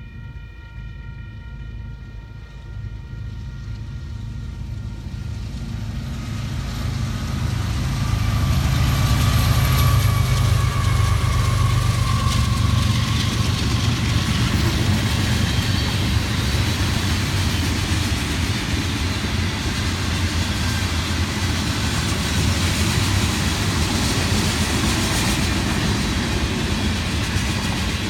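Union Pacific train approaching and passing. An air horn chord tails off in the first few seconds, then the rumble of the diesel locomotives grows louder over about eight seconds, and the train keeps rolling past steadily.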